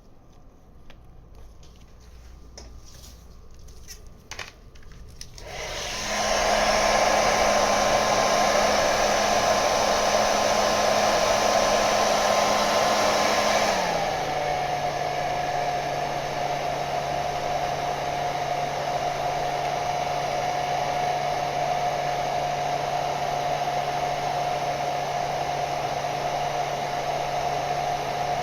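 A few faint clicks, then about five seconds in a handheld hot-air blower switches on with a steady rushing whoosh and motor whine. About halfway through it drops to a lower speed, the whine stepping down in pitch and the noise getting a little quieter.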